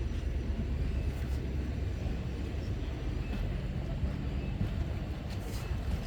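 CP Holiday Train rolling past: a steady low rumble that holds even throughout.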